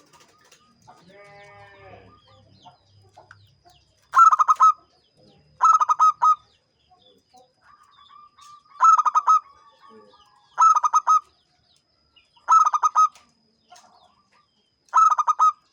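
Zebra dove (perkutut) cooing: six short phrases of fast-pulsed coos, each about half a second long and repeated every two to three seconds.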